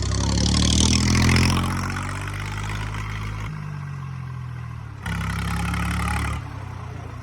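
Diesel tractor engines revving hard under load as two tractors pull against each other in a tug-of-war. The engine sound swells to its loudest about a second in and then eases. It rises again sharply about five seconds in for a second or so, then drops back.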